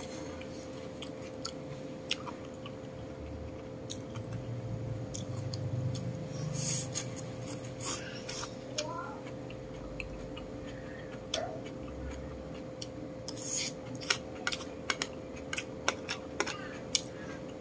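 Close-miked chewing and crunching of food, with many sharp clicks of a metal spoon and chopsticks against a plate, coming thickest near the end.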